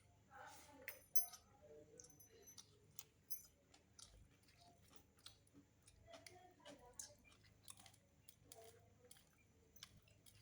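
A person chewing chicken, faint, with many short irregular clicks of mouth and food.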